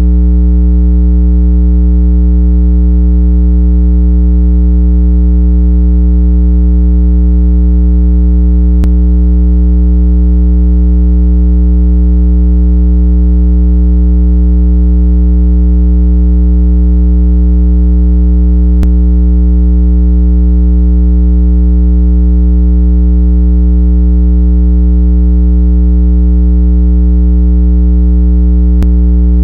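Continuous, loud, low electronic water-eject tone, sold as a 165 Hz speaker-cleaning frequency, holding one unchanging buzzy pitch with many overtones. A faint click comes about every ten seconds.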